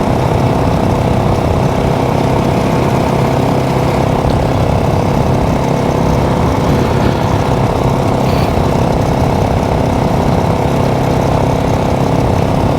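Motorcycle engine running at a steady, even pitch while the bike is ridden.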